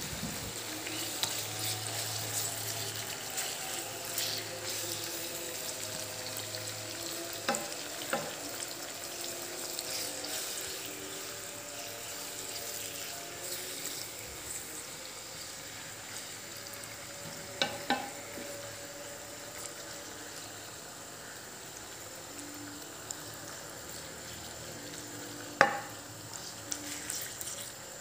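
Squid pieces sizzling and crackling in hot coconut oil, stirred with a wooden spatula, with a few sharp knocks of the spatula against the pan.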